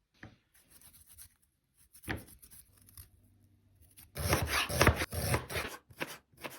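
Food being prepared on a cutting board: scattered rubbing and scraping strokes, then a louder run of quick cutting or chopping strokes around the middle.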